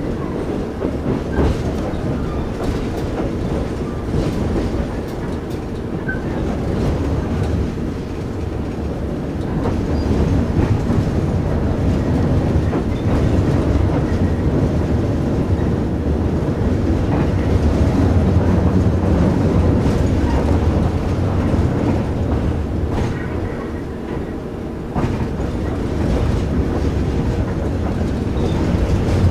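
Passenger train running on the rails, heard from inside the coach: a steady low rumble of wheels on track with scattered clicks as the wheels cross rail joints, louder through the middle.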